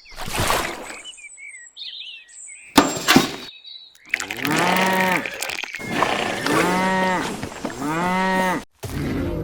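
Three long, drawn-out moo-like calls in a row, preceded by a burst of noise and a sharp knock.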